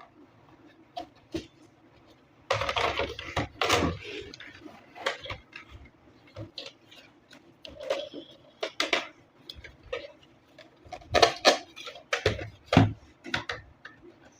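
Unboxing handling: irregular clicks, rustles and light clatter of plastic packaging and toy parts, with bursts of louder handling a few seconds in and again near the end.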